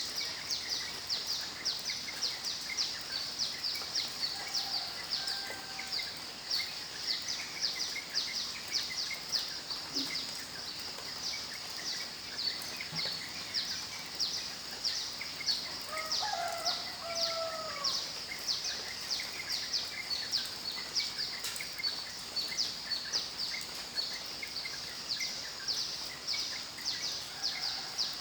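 Insects chirping in a steady rhythm, about two high pulses a second, over a soft even hiss. A few short, gliding bird calls break in, most clearly a little past the middle.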